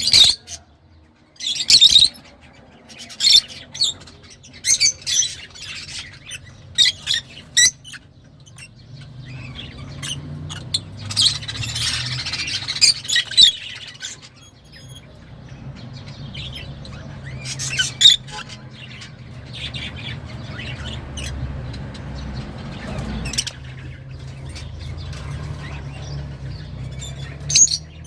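A flock of rosy-faced lovebirds calling: many short, shrill chirps and squawks in irregular bursts, with a denser stretch of chatter partway through. A steady low hum runs underneath from about a third of the way in.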